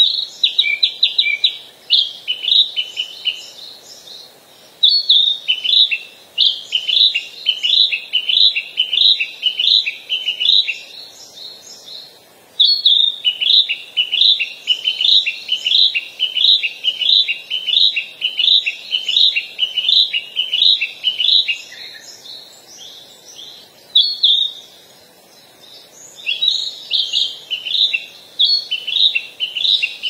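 Bird song: runs of quick, loud chirps, about four or five a second, each chirp dropping in pitch, repeated in phrases of several seconds with short pauses between.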